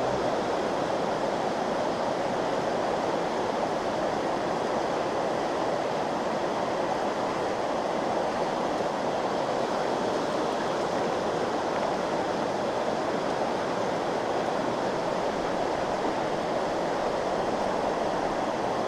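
Trout stream water rushing over rocks: a steady, even rush that does not change.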